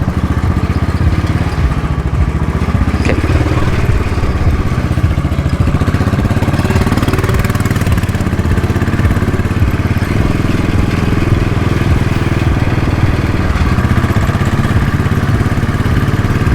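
Motorcycle engine running while riding, its pitch rising and falling with the throttle around the middle, over a steady rush of wind noise.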